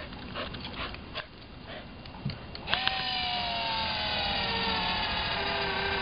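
Light clicks and taps, then about two and a half seconds in a couple of sharp clicks as the GoDogGo automatic ball launcher's motor starts running with a steady whine that drifts slowly lower in pitch.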